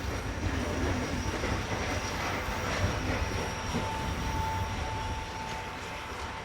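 Steam train running with a steady low rumble and noise. A steady high tone joins about four seconds in.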